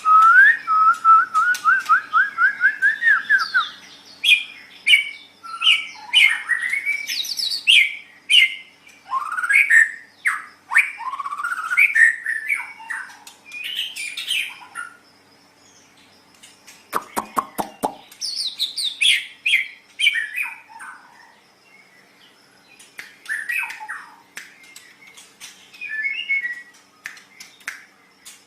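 White-rumped shama (murai batu) singing: it opens with a fast run of repeated notes that climbs slightly in pitch, then goes into varied whistled phrases. A short rattle of about ten clicks comes a little past halfway, and more phrases follow after a brief pause.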